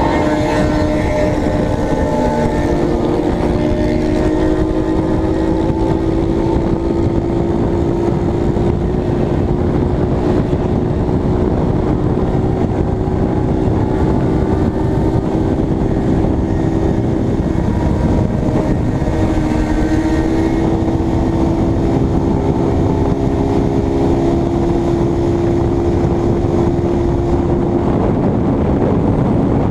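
Honda CBX 250 Twister's single-cylinder four-stroke engine running steadily at cruising speed, its note holding level for long stretches and easing briefly about two-thirds of the way through. Heavy wind rumble on the helmet microphone runs under it.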